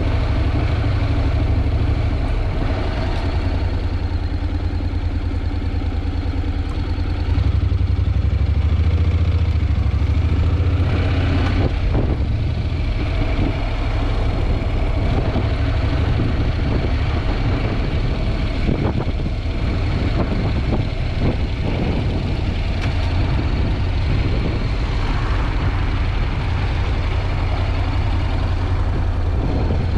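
Wind buffeting an action camera's microphone with a loud, steady low rumble while riding, with a Honda NC750X's parallel-twin engine running underneath.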